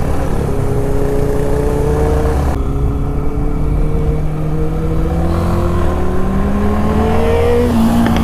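Benelli 600i inline-four motorcycle engine and exhaust pulling under acceleration, its pitch climbing steadily, with a brief dip near the end as it shifts gear.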